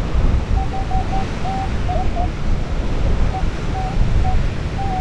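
Metal detector giving a string of short, mid-pitched beeps in two clusters, signalling a metal target in the dug sand, over heavy wind buffeting the microphone with a steady low rumble.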